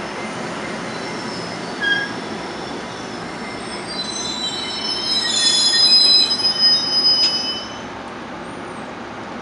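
Bombardier bi-level commuter train rolling slowly alongside a platform and squealing as it brakes to a stop. Several high, steady squeals build from about four seconds in, are loudest just before the train stops, and cut off near the end, leaving a low rumble.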